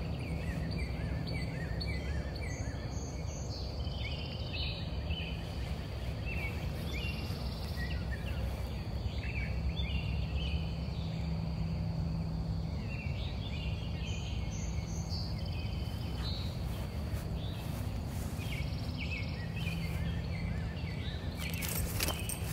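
Songbirds chirping and calling in short repeated phrases over steady low outdoor background noise, with a faint steady high whine. There are a few sharp clicks near the end.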